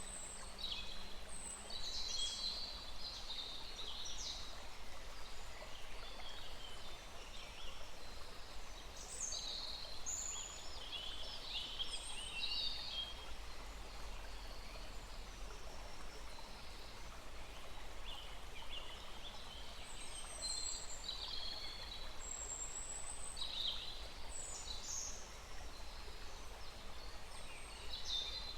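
Small forest stream running with a steady hiss, and several songbirds chirping and trilling over it in high, short phrases that come in clusters.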